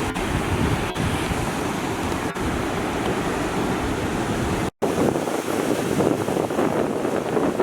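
Heavy surf from a typhoon-driven sea breaking on the shore: dense, steady wave noise with wind buffeting the microphone. The sound drops out completely for an instant a little past halfway.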